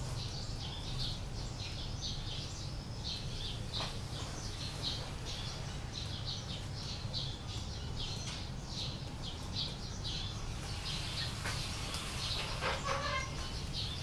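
Birds chirping in quick, high, repeated notes over a steady low hum.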